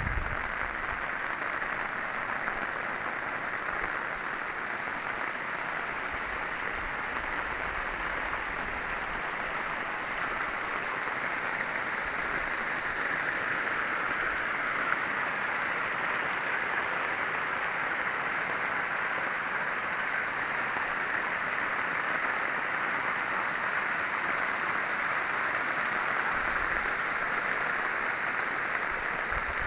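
Heavy rain, a downpour, falling steadily as an even, unbroken hiss.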